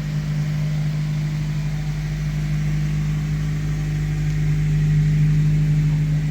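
Exhaust of a 9th-generation Honda Civic with its muffler deleted, running as one steady low drone that grows a little louder toward the end.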